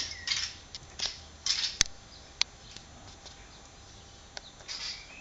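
Willie wagtail giving short, harsh scolding chatters, three bursts, an alarm call made in defence of its nest against a cat. A sharp click a little under two seconds in is the loudest sound.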